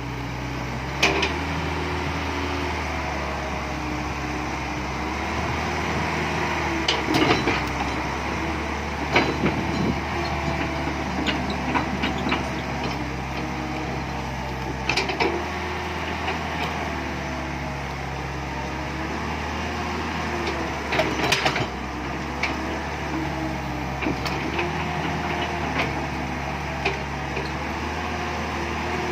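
Backhoe excavator working: its diesel engine runs with its pitch rising and falling as the hydraulics take load, and a few sharp knocks of metal on earth and stone are heard along the way.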